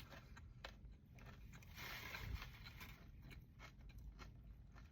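Faint close-up chewing of a chicken Caesar wrap, with scattered soft mouth clicks and a slightly louder swell of chewing about two seconds in.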